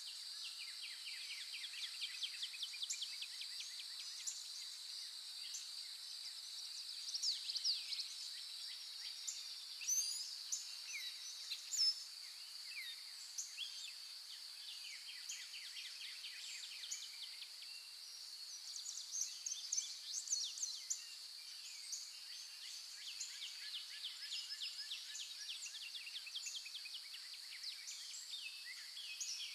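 Several birds singing and calling, with rapid trills and short chirps, over a steady high insect drone; the bird calls come louder a few times, around a third of the way in and again past the middle.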